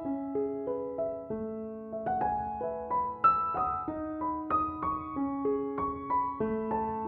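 Background music: a gentle solo piano piece, its notes struck one after another about twice a second.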